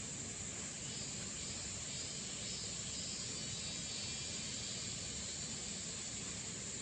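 Insects chirring in one steady high drone that does not change, over a low, even rushing noise.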